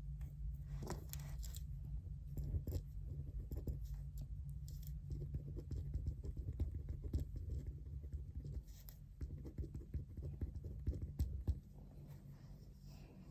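Writing on paper: quick scratchy strokes and small taps over a steady low hum, with a larger paper rustle about a second in. The writing stops about twelve seconds in.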